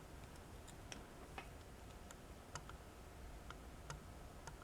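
Near silence with a dozen or so faint, irregular light clicks scattered through it.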